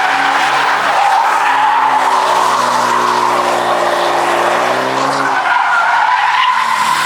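A car's tyres squealing in one long continuous screech while its engine revs high underneath. The engine note wavers and drops away about five seconds in while the squeal carries on.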